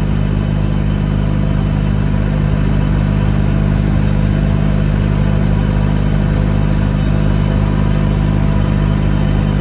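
Ligier Ambra microcar's small Lombardini diesel engine running steadily under way, heard from inside the cabin, with a fast, even pulse in its low drone. The car's transmission-side variomatic (CVT) pulley is failing at this point, and the driver has been hearing odd noises and a burning smell.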